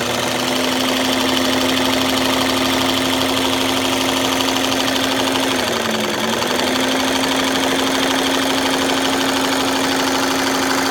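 Vintage White electric sewing machine running at speed on its foot pedal, a steady smooth motor hum. It slows briefly about six seconds in and comes straight back up to speed.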